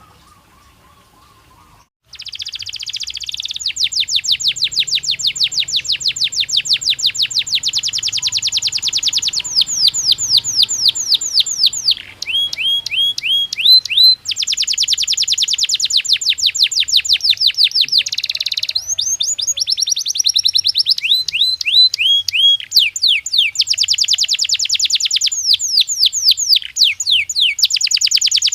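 Domestic canary singing: long rolling trills of very fast repeated notes, broken now and then by slower rising whistles. The song starts about two seconds in.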